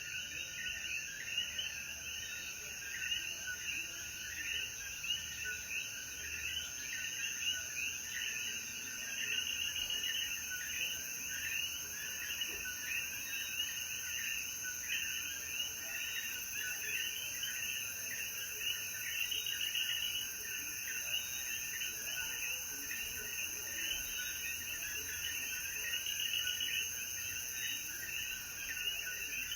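Chorus of coquí frogs calling after rain, many overlapping short two-note calls that rise in pitch, several a second, over a steady high-pitched insect drone.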